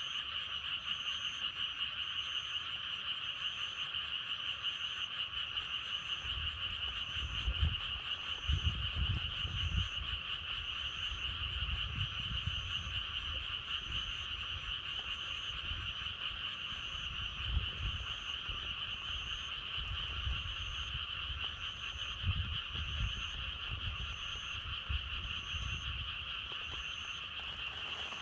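Dense chorus of frogs croaking continuously, with a faint higher-pitched note repeating roughly once a second. Gusts of wind rumble low in the background from about six seconds in.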